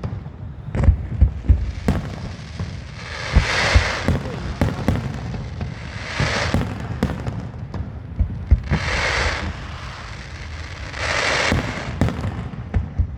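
Fireworks going off: a string of sharp bangs, with four swells of hissing crackle lasting about a second each, spaced roughly two to three seconds apart.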